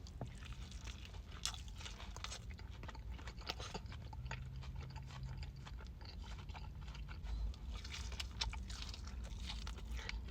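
A person chewing and biting Raising Cane's food with crisp crunches and many irregular mouth clicks.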